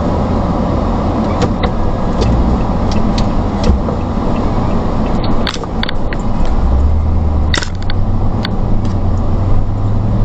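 Steady road and engine noise heard inside a moving car, with a few sharp clicks and knocks scattered through it.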